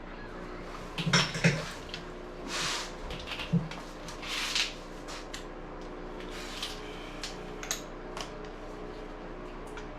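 Metal hand tools and engine parts clinking and clanking, with a few sharp knocks about a second in and short scraping or rustling sounds between.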